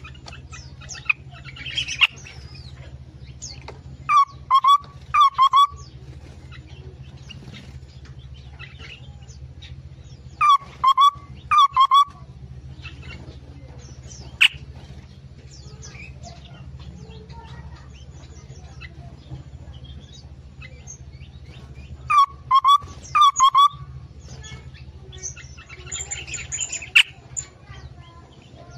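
Aviary songbirds singing: a loud phrase of three or four clear whistled notes comes three times, with softer chirps between and a spell of busier chatter near the end, over a steady low hum.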